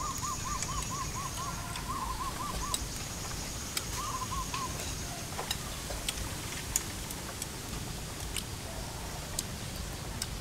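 A bird calling in the background: three runs of quick rising-and-falling notes, about six a second, the last about four seconds in. Light clicks of chopsticks and spoons against bowls are scattered throughout.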